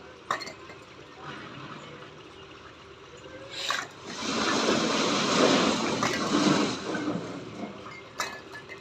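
Bricks clattering down in a rush off a tractor trolley for about three seconds, with a few single knocks before and after.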